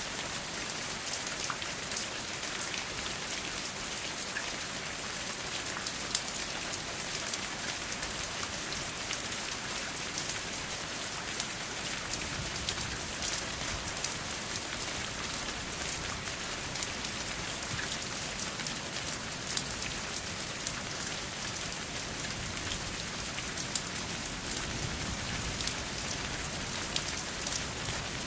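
Steady rain falling, an even hiss with many individual drops ticking through it, and no thunder.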